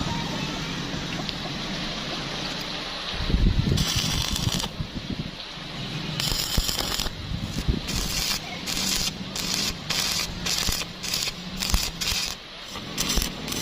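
Welding arc crackling in short repeated bursts, about two a second, as in stitch welding. A heavy thump comes a few seconds in, over a low steady hum.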